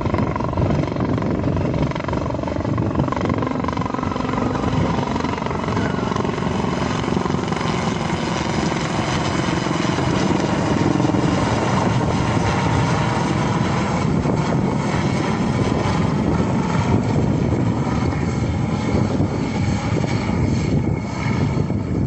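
An airliner's engines running loud and steady, a roar with whining tones that slowly glide down in pitch.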